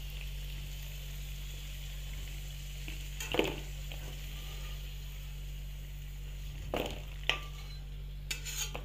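Fried potato pieces sizzling steadily in hot oil in a metal wok. A metal spatula scrapes against the pan a few times as the potatoes are lifted out.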